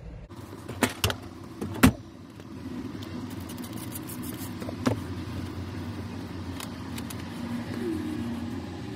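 A few sharp plastic clicks and knocks, then a small handheld vacuum cleaner switches on about two seconds in and runs with a steady hum, sucking dust out of the bunk air-conditioning unit's filter housing; its pitch shifts briefly near the end.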